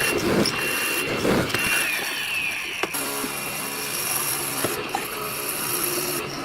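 Woodworking power tool or machinery running steadily, with a few sharp mechanical clicks.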